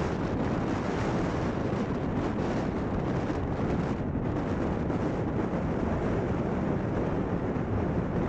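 Strong wind buffeting the microphone: a steady rumbling rush with no distinct tones or impacts.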